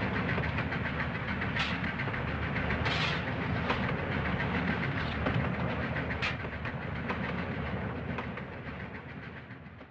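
A train running along the rails, a steady rumble with scattered clicks of the wheels over rail joints, fading away over the last few seconds.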